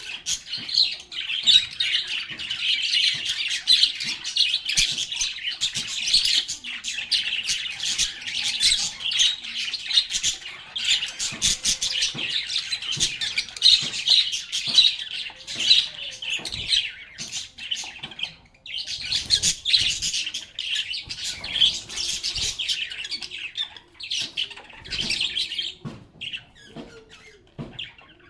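A group of lovebirds chirping and chattering in dense, overlapping high-pitched calls, with a brief lull about two-thirds of the way through.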